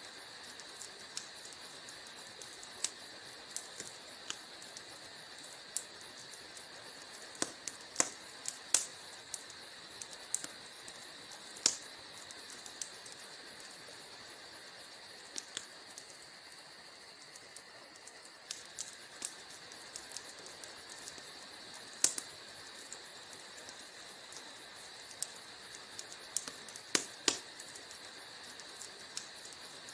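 Wood fire crackling in a fireplace: irregular sharp pops and snaps at uneven intervals, a few louder ones standing out, over a steady faint hiss.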